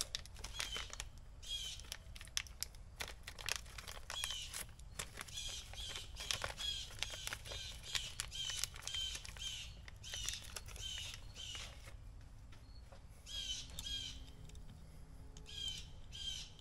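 A bird chirping over and over in runs of short, falling chirps, about two a second, with light clicks and taps of small parts being handled.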